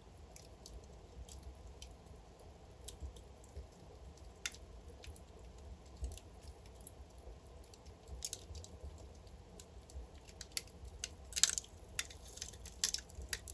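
Wood fire in a fireplace crackling: scattered sharp pops and snaps over a low steady rumble of the flames, growing busier in the second half, with the loudest cluster of pops near the end.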